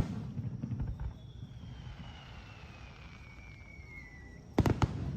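Fireworks: a thin whistle falling slowly and steadily in pitch for about three seconds, then several sharp bangs close together near the end.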